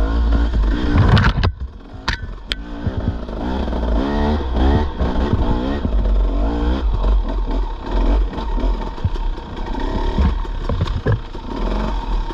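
Dirt bike engine revving up and down as it is ridden over rough trail, with a few sharp knocks and rattles from the bike about two seconds in.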